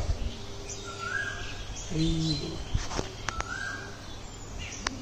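A bird calling, one short, slightly rising note repeated about every two and a half seconds. A brief low voice-like sound comes about two seconds in, and a few sharp clicks come later.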